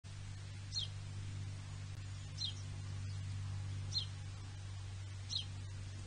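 A bird calling: a short, high note sliding down in pitch, repeated four times about a second and a half apart, over a steady low hum.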